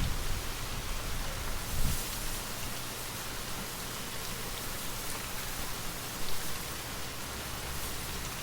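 Steady rain falling, an even hiss of many drops, with a brief low rumble of wind about two seconds in.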